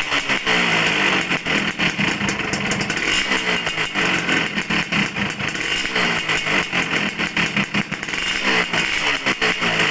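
Suzuki Satria two-stroke motorcycle engine revved through a gutted ('bobokan') stock muffler, the revs climbing and dropping back about four times.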